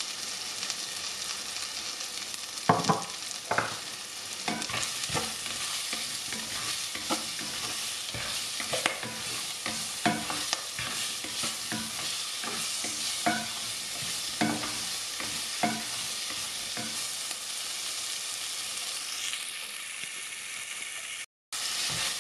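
Shallots, bay leaf and curry leaves sizzling steadily in hot oil in a pressure cooker pan. From a few seconds in until about three-quarters through, a spatula stirs them and knocks and scrapes against the pot. The sound cuts out for a moment near the end.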